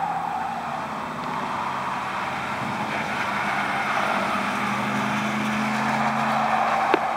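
Subaru Impreza 2.5i's flat-four engine running steadily as the car goes by on the track, its note rising a little past the middle under acceleration. A single sharp click comes near the end.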